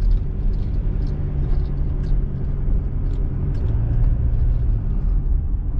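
Engine and road noise heard from inside a small truck's cabin as it drives: a steady low rumble with an engine hum that drops in pitch about halfway through.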